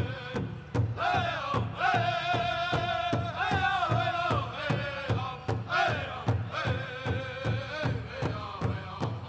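Pow wow drum group: a large drum beaten in a steady rhythm of about two and a half beats a second, with singers holding high, wavering notes over it.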